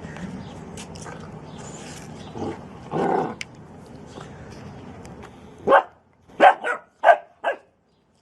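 Dog barking: five sharp barks in quick succession in the latter part, after a stretch of steady background noise with one short louder sound about three seconds in.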